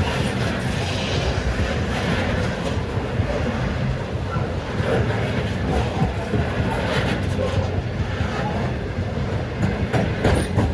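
Train running past with a steady rumble and a few sharp clicks from the wheels over the track.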